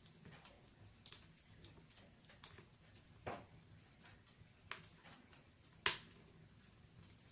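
Burning firewood crackling in a fireplace: irregular sharp pops and snaps over a low steady background, the loudest pop about six seconds in.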